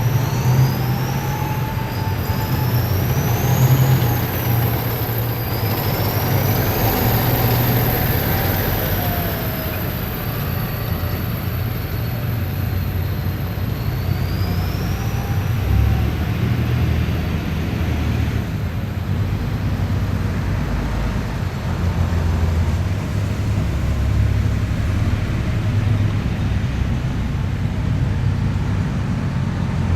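Heavy military vehicles driving past in a column, their engines giving a steady deep rumble. Over the first half, high whines rise and fall in pitch above the rumble, then fade.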